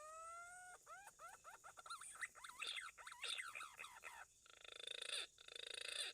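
Green pigeon (punai) calls: a long rising whistle, then a quick run of warbling whistled notes that rise and fall. The call ends in three short buzzy, rasping bursts.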